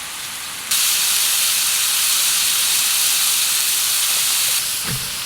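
Food frying in a hot pan over a campfire: a loud, even sizzle that starts abruptly about a second in and drops away near the end.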